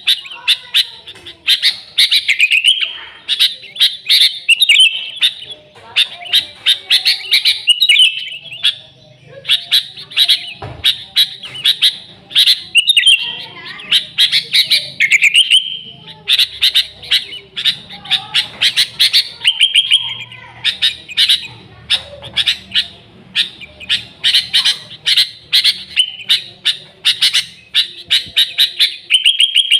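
Sooty-headed bulbul (kutilang) singing and calling without pause: loud, rapid runs of sharp chirping notes broken by short warbled phrases.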